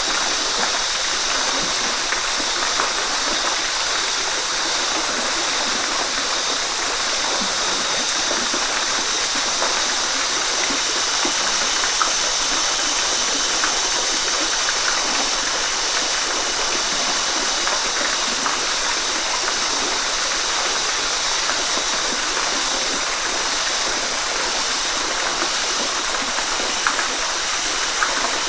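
Waterfall: water pouring and splashing in a steady, even rush, bright and hissy with little low rumble, with small splashes flicking through it now and then.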